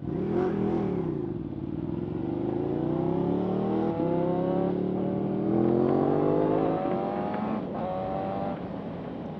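Suzuki GSX-R750 sportbike engine accelerating hard, revs climbing through the gears, with the pitch dropping at each upshift, at about 4 s and again near 7 s.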